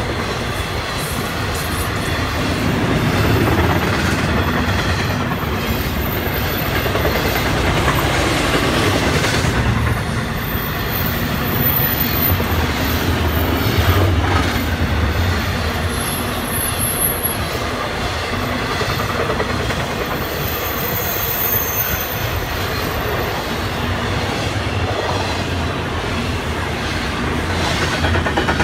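Double-stack container cars of a freight train rolling past: a steady rumble and clatter of steel wheels on the rails, with a few brief high-pitched wheel squeals along the way.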